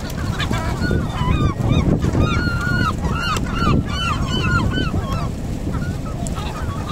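Gulls calling: a flurry of short, repeated yelping calls, thickest in the middle and thinning toward the end, over a steady low rumble.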